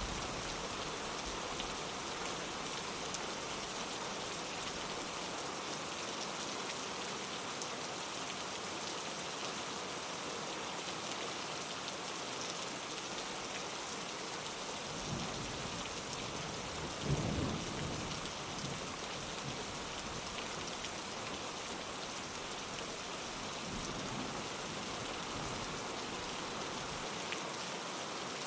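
Steady rain pattering on a window, with a low rumble of thunder rolling in a little past halfway and a fainter rumble a few seconds later.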